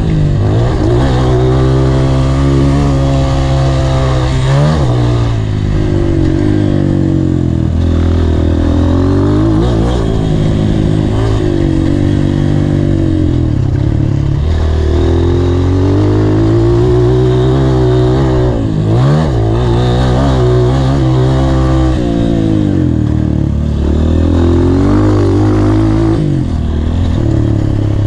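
Honda CRF230's four-stroke single-cylinder dirt bike engine, revving hard under throttle, its pitch climbing and dropping again and again, with sudden drops a few seconds apart.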